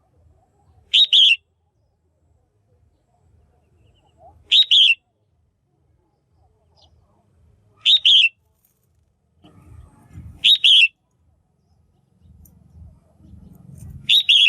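Female red-whiskered bulbul calling: five short, loud double-note chirps, one about every three and a half seconds. A faint low rumble sits under the later calls.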